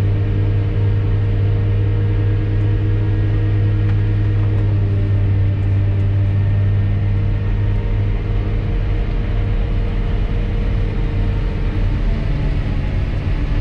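Self-propelled forage harvester running steadily while chopping, heard from inside the cab: a steady low drone of engine and cutterhead, its tone shifting slightly near the end.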